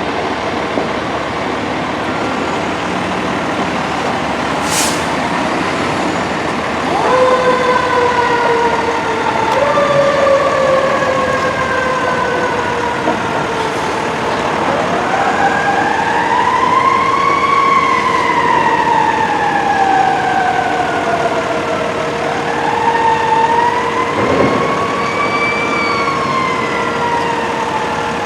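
Fire apparatus siren sounding over a running truck engine and street noise. The siren comes in about a quarter of the way through with two tones that each start high and slowly fall. It then settles into a slow wail that rises and falls twice.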